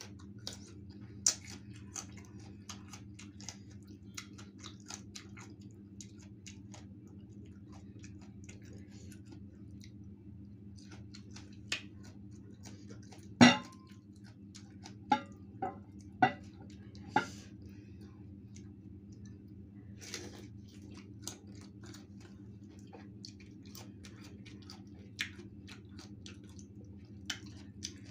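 Close-up mouth sounds of eating crisp green mango slices: many short wet clicks and smacks of chewing. One much louder sharp crack comes about thirteen seconds in, over a steady low hum.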